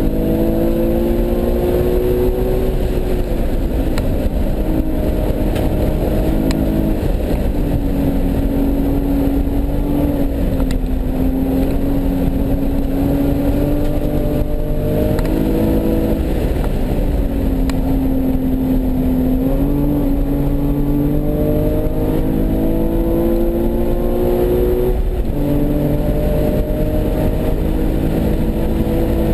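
Nissan 370Z's 3.7-litre V6 engine pulling hard around a racetrack. Its pitch climbs steadily and drops away several times, at upshifts or braking, over a steady rush of road and wind noise.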